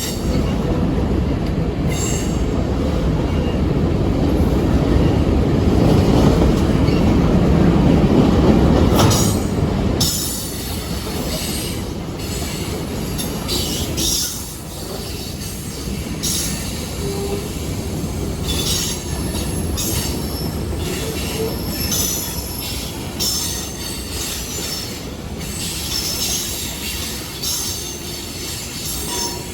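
A train rolling past on the rails: a heavy rumble that builds until about nine seconds in, then drops off suddenly at ten seconds. After that come lighter wheel noise and clacking, with many short high squeals of wheels on the rails.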